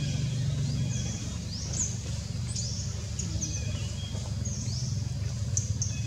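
Birds chirping: short high chirps every second or so, some rising and some falling, over a steady low hum.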